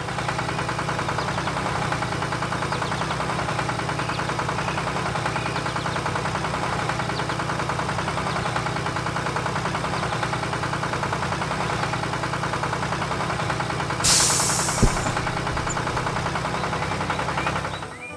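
Fire truck's engine idling steadily with a fast, even knock, starting abruptly and cutting off shortly before the end. About fourteen seconds in comes a short burst of hiss, followed by a sharp click.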